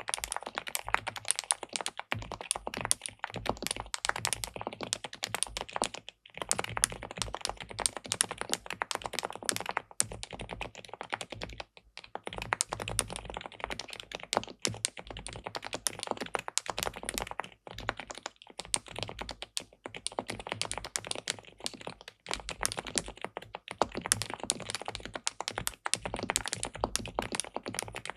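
Fast continuous typing on an SPM PL87W tenkeyless mechanical keyboard with linear switches in a PC plate. There are brief pauses every few seconds.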